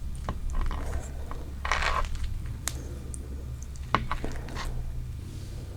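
Close-miked eating of a soft cream-and-strawberry dessert: scattered small clicks of utensils against dishware, a short noisy burst about two seconds in, and a sharp click about four seconds in, over a steady low hum.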